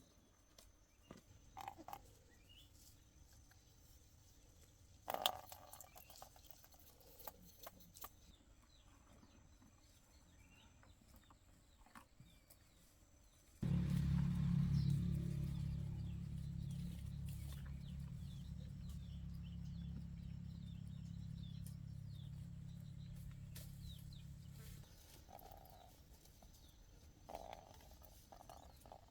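Scattered clicks and knocks, then a low motor drone that starts suddenly about halfway through, runs steadily for roughly eleven seconds and cuts off abruptly.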